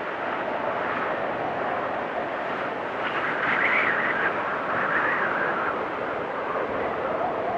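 Storm wind blowing steadily, with whistling gusts that rise higher in pitch about three seconds in and again about five seconds in, and a lower whistle near the end.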